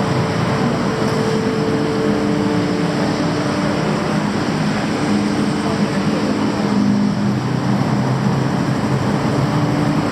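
Busy street traffic: a steady wash of traffic noise with nearby engines humming at even pitches that shift and come and go.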